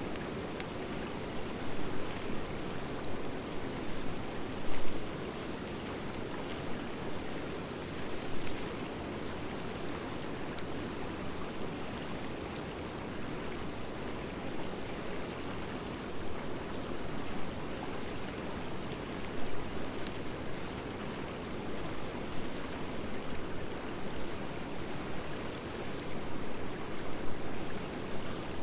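Driftwood and dry hardwood fire burning steadily, with a continuous low rush and scattered crackles and pops from the hardwood, the sharpest pop about five seconds in.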